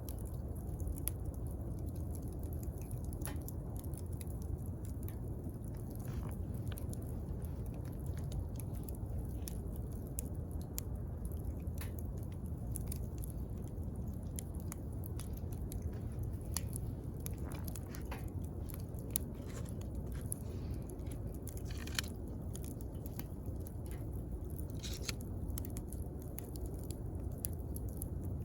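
Wood campfire burning, with a steady low rush of flames and irregular sharp crackles and pops from the burning wood.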